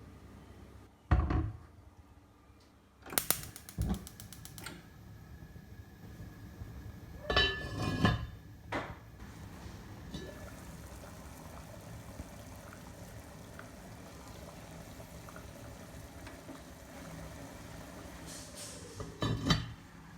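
Kitchen work sounds: bowls and pots clinking and knocking several times, with water pouring or running between the knocks.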